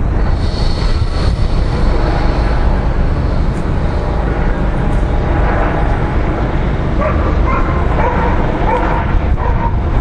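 Steady low drone of a Eurocopter EC135 T2 helicopter circling overhead, with a dog barking and yelping repeatedly in the second half.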